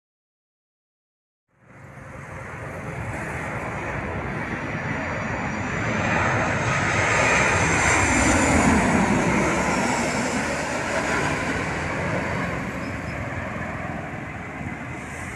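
Jet airliner passing low overhead on landing approach: engine noise builds after a second and a half of silence, peaks about halfway with a high whine that falls in pitch as it goes by, then slowly fades.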